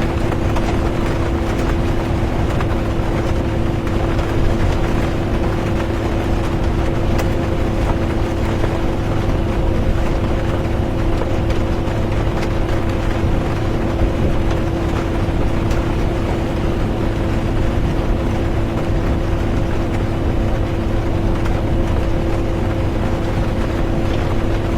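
Inside a moving bus: a steady engine and road drone with a constant hum, under an even hiss of rain. Nothing changes; it holds level the whole time.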